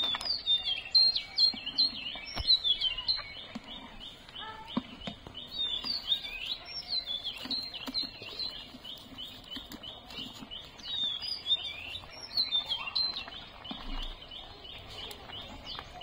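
Small birds chirping and twittering throughout, high short notes often repeated in quick runs of several a second. A few faint knocks sound now and then beneath them.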